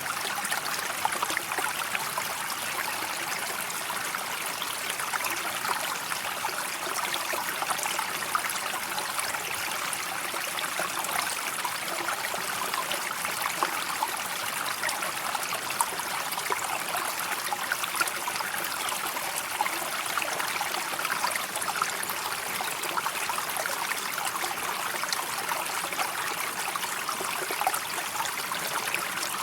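River water flowing steadily, a continuous babble of many small trickles and splashes.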